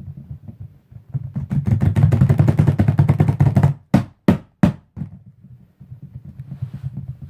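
A person making jungle noises with the mouth: a loud, fast rattling rumble for nearly three seconds, then three sharp pops in quick succession, over a low buzzing drone.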